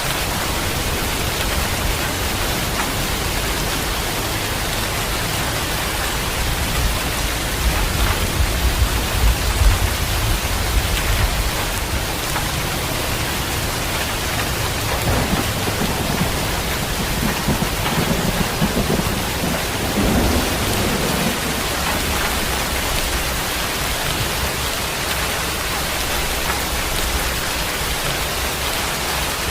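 Steady heavy rain hissing, with thunder rumbling low beneath it, swelling twice: from about a quarter of the way in and again past the middle.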